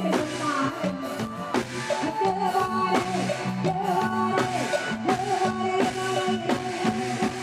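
Live Isan band music with drum kit, bass and a melodic lead line sliding over a steady beat, an instrumental passage without clear singing.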